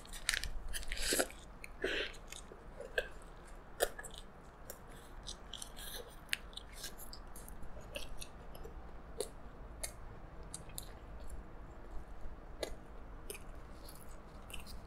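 A person biting into and chewing a double cheeseburger, close-miked: a few louder bite noises in the first two seconds, then steady chewing with scattered short clicks.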